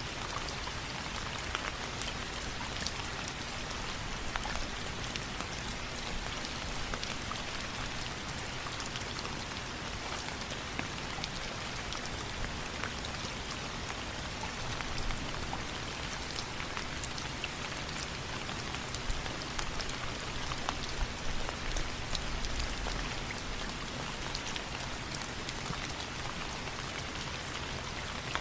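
Steady rain falling, with a constant hiss of drops and many small sharp ticks of drops striking a surface.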